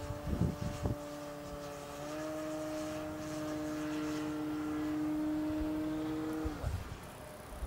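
Electric motor and propeller of a radio-controlled Cessna 182 model running with a steady whine. The pitch steps up slightly about two seconds in, holds, then winds down and stops near the end. A few low thumps come in the first second.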